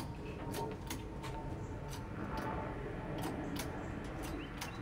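Hydraulic cab-lift hand pump being worked, its lever and valve making sharp clicks, roughly two a second, as the cab is pumped up on its hinge.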